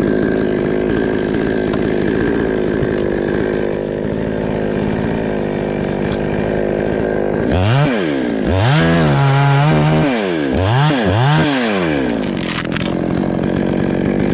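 Two-stroke chainsaw running steadily, then revved up and down about four times in quick succession before settling back to a steady run.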